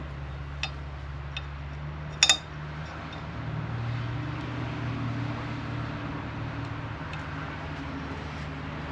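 A few light metallic clicks and one louder clink about two seconds in, from a measuring tool handled against the machined metal spindle housing, over a steady low machine hum in the shop.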